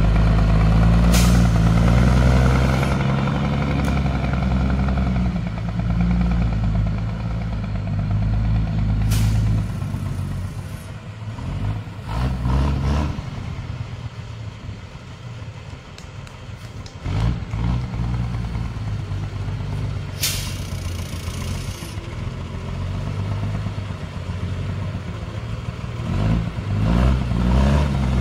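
Heavy motor vehicle engine running, loudest for the first ten seconds or so, then lower, with several short hissing bursts in between.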